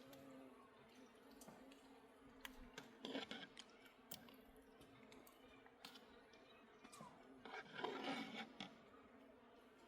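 Faint scattered clicks and light scrapes from small objects being handled, with a louder rustling scrape about three-quarters of the way through.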